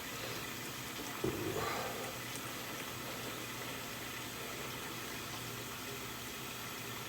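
Water running steadily from a tap into a container as it fills, with a brief knock about a second in.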